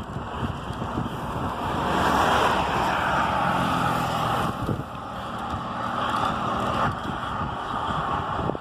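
Wind rushing over the microphone of a riding bike, over steady road noise, with a low engine hum that comes and goes.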